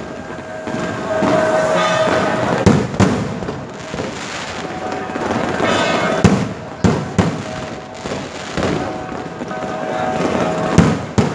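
Aerial fireworks shells bursting overhead: a run of sharp, irregular bangs, some in quick pairs, over a continuous crackle of burning stars.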